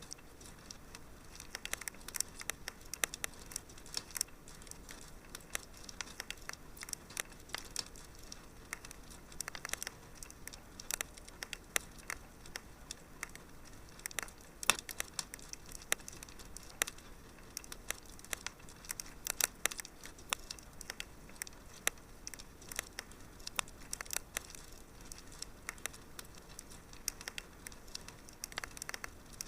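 Wood fire in a fireplace crackling: a steady stream of irregular sharp pops and snaps over a soft low hiss.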